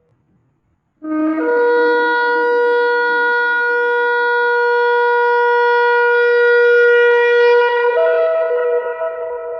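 A shofar sounding one long blast. It starts about a second in on a brief low note, jumps up to a steady held tone, and steps up to a higher note near the end.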